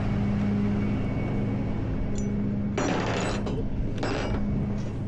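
Ratchet tie-down strap being cranked, with two short runs of clicking about three and four seconds in, over a steady low engine hum.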